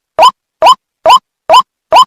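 White-breasted waterhen (ruak-ruak) call played as a bird lure: a short, loud, upward-sweeping note repeated evenly about twice a second, with dead silence between notes.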